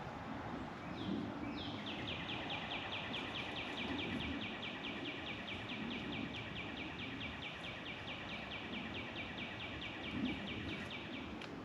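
A bird trilling: after two short lead-in notes, one long even run of quick down-slurred notes, about five a second, lasting some nine seconds and stopping shortly before the end. A steady background hiss runs underneath.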